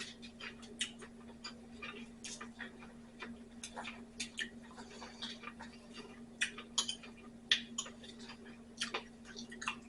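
Someone eating a salad: quiet, irregular clicks and taps of a fork on the plate along with chewing, over a faint steady hum.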